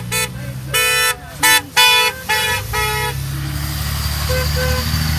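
A truck horn honking in about five short blasts over the first three seconds, followed by a low diesel engine drone that swells as a parade truck passes.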